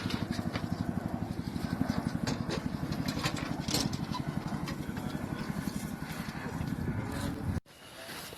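An engine running with a steady, rapid low throb, which cuts off abruptly near the end.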